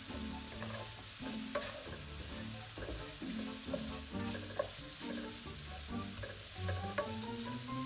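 Grated carrots sizzling in oil in a frying pan, stirred and pushed around with a wooden spatula that scrapes and taps against the pan every second or so.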